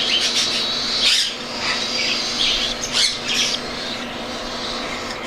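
Baby cockatiel chicks begging: a continuous raspy, high-pitched screaming, with louder individual calls breaking out every second or so.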